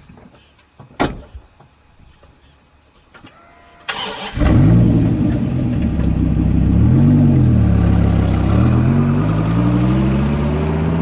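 Dodge Viper's V10 engine cranked and started about four seconds in, after a few light clicks. It is revved up and down once, then the revs climb steadily as the car accelerates away.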